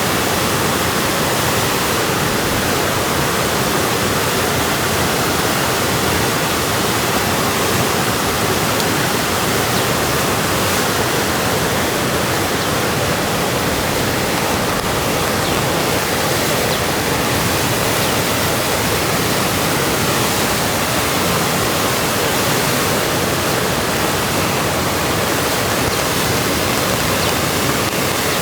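River water rushing in a steady, even roar of noise.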